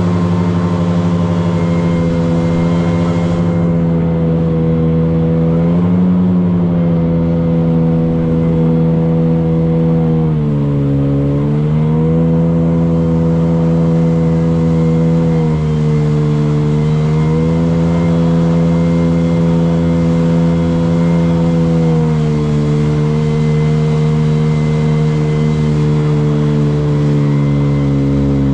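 Motorboat engine running steadily under way with a low rumble, its pitch dipping and rising again a few times as the throttle changes, most clearly about ten seconds in.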